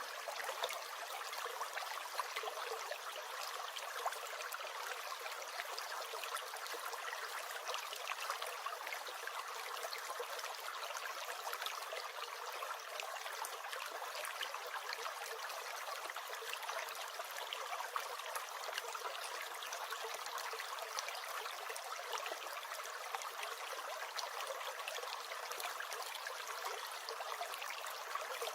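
A small stream gurgling and trickling, a steady, even rush of water with fine splashy detail.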